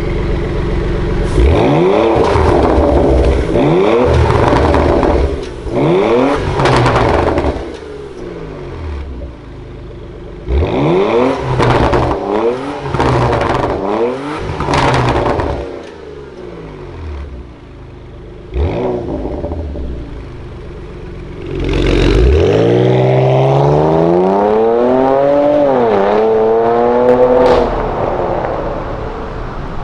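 Porsche Macan S twin-turbo V6 through an Akrapovic titanium full exhaust with the valves open, revved again and again in short blips that rise and fall. Crackles come between the revs. Near the end there is one longer, louder run up in revs with a single dip partway through.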